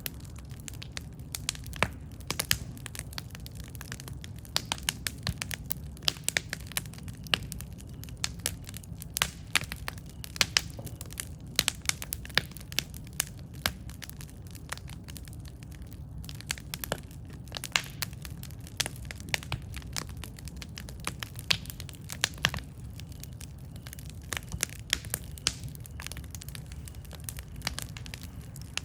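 Wood campfire burning, with sharp irregular crackles and pops several times a second over a steady low rumble of flame.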